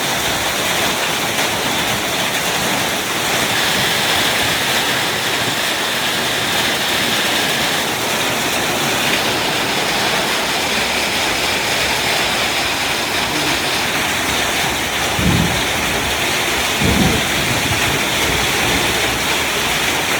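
Hailstorm: heavy rain and hail coming down in a steady, dense hiss. Twice near the end there is a brief low thump.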